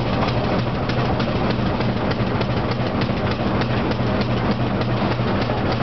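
Mountain rack-railway train running on the Abt rack line, heard from a carriage: a steady low hum and rumble with rapid, irregular clicking from the wheels and rack.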